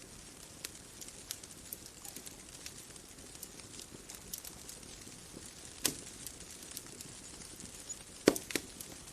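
Wood bonfire crackling: scattered small snaps over a faint steady hiss, with a louder pop a little past the middle and a quick cluster of three sharp pops near the end.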